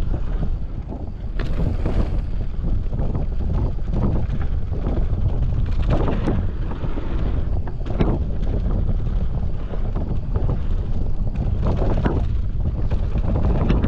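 Wind buffeting the microphone of a mountain bike on a fast downhill run, over the steady noise of knobby tyres on the dirt trail, with frequent clattering knocks as the bike hits bumps and roots.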